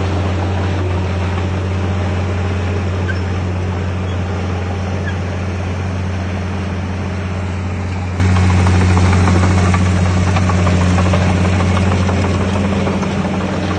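Heavy diesel engine of earthmoving machinery running steadily at an even pitch, getting abruptly louder about eight seconds in.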